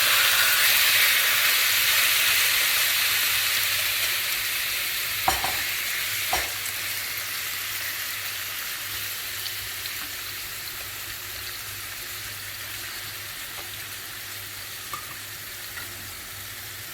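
Marinated chicken strips sizzling in hot oil in a frying pan on a high flame, loudest at first and slowly dying down. Two short knocks come about five and six seconds in.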